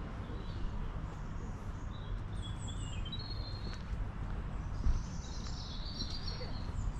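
Small birds chirping and trilling in short, scattered calls over a steady low background rumble.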